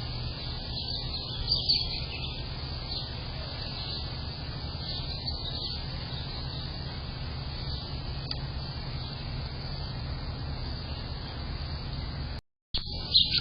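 Scattered high bird chirps over a steady low rumble. The sound cuts out for a split second near the end, and louder chirps follow.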